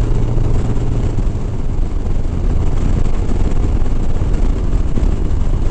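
Harley-Davidson Sport Glide's V-twin engine running steadily at highway speed, a constant low rumble under an even hiss of wind and road noise.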